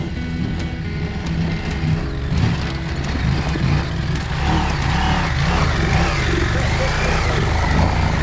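Motorcycle engine running under a rush of wind, its pitch rising and falling again and again as the rider works the throttle through bends.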